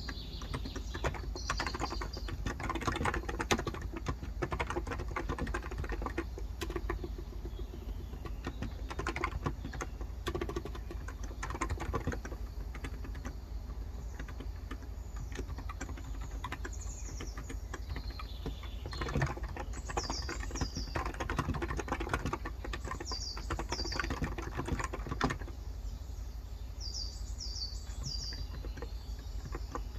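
Fast, continuous typing on a Cox Endeavor electrostatic capacitive tenkeyless keyboard with 35 g switches. A bird chirps in quick series of short falling notes during the second half, over a steady low hum.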